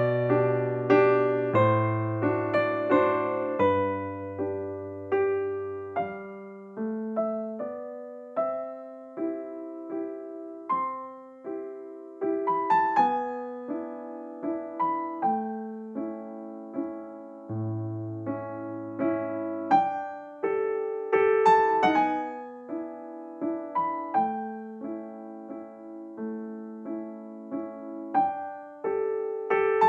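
Background music: a gentle piano melody played note by note over low bass notes.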